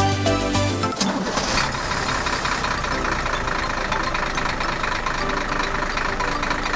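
Music for about a second, then the small motor of a home-made mini tractor running steadily, with a fast even knocking rhythm.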